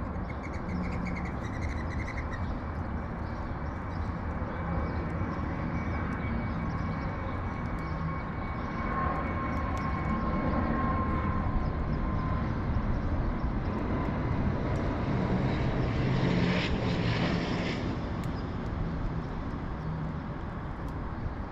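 Engine drone of a passing fixed-wing aircraft, a steady low rumble with a held hum that grows slowly louder, peaks late, then begins to fade.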